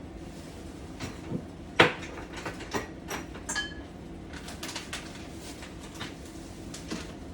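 Kitchen clatter of utensils and dishes: scattered clicks and knocks, with one loud clack a little under two seconds in and a few brief ringing clinks just after.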